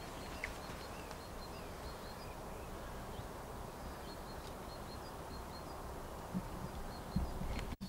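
Outdoor ambience with a steady background hiss and a small bird chirping over and over in short, high notes, with a couple of soft knocks near the end.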